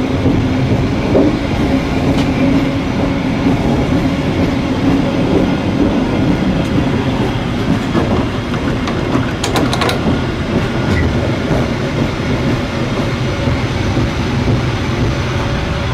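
Business-class passenger train running on the rails, heard from inside the carriage: a steady rumble with a low hum that fades after about six seconds, and a brief cluster of clicks about ten seconds in.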